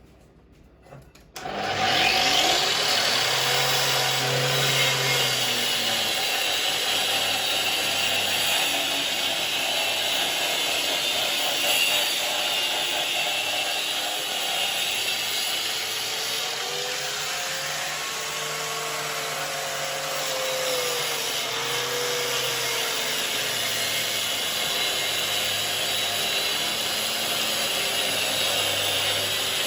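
Electric power tool starting up about a second and a half in and running steadily as it cuts into a plastered foam-block wall. Its motor pitch sags and recovers twice as it takes load.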